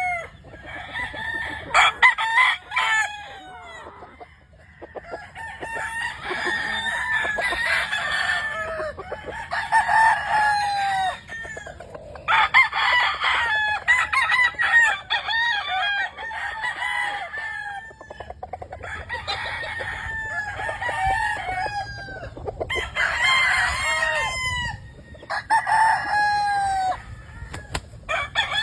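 Several gamefowl roosters crowing over one another in repeated rounds, with hens or roosters clucking between the crows.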